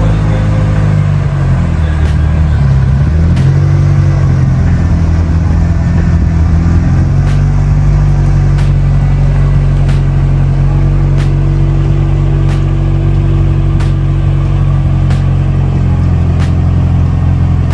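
Car engine under way, its pitch rising and falling as it accelerates through the gears in the first several seconds, then holding a steady drone at cruising speed.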